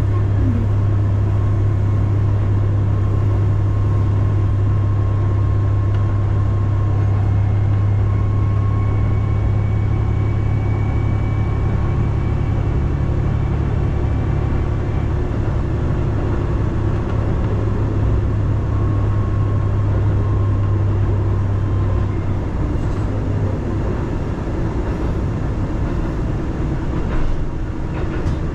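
Diesel railcar running with a steady low engine drone, which eases off about twenty seconds in.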